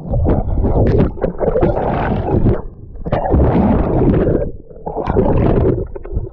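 Pool water splashing and sloshing close to the microphone as someone swims, with a heavy low rumble and crackling. It comes in three surges, dipping briefly about three seconds in and again near five seconds.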